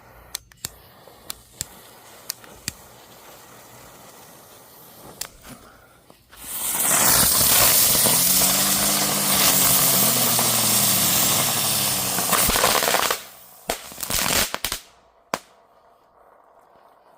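Spinning ground bloom flower firework: a few scattered sharp pops, then about six seconds in a loud rushing hiss with a wavering whirring tone. It lasts about six and a half seconds and cuts off suddenly, followed by a handful of crackling pops.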